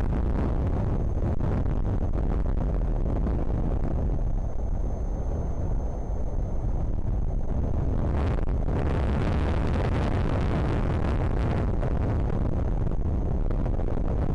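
Strong wind buffeting the nest camera's microphone: a steady deep rumble, with a harder, hissier gust a little past the middle lasting about three seconds.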